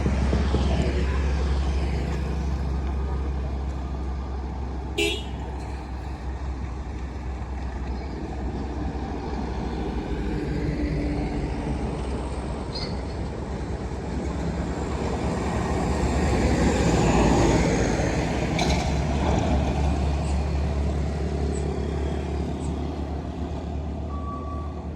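Trucks running past on a toll road: a steady low engine rumble that swells as a vehicle goes by about two-thirds of the way in, with a brief horn toot near the end.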